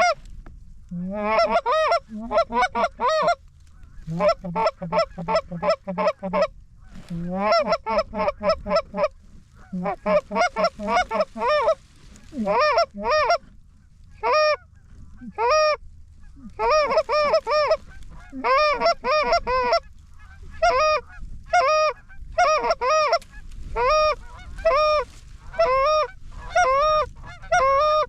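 Goose honks repeated in quick rhythmic runs of several calls with short gaps between runs, many honks breaking from a low note up to a high one.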